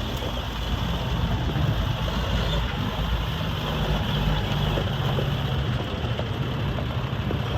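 Diesel engine of a 2007 Freightliner M2 dump truck idling steadily.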